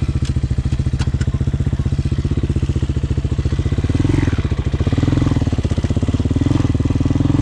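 Hawk 250 dual-sport motorcycle's single-cylinder four-stroke engine running at a steady low-speed pulse, growing fuller with a slight rise and fall about four seconds in.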